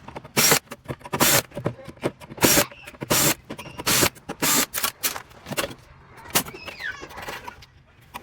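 Sheet-metal parts of a gas hot water heater being handled and pulled about: irregular knocks, clatters and scrapes of metal on metal, with a brief falling squeak about seven seconds in.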